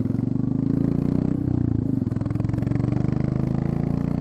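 Royal Enfield Classic 350 single-cylinder engine running loud through an open exhaust pipe with the end tip (muffler) removed and only the small catalytic converter left, its firing pulses coming through as a fast, even beat.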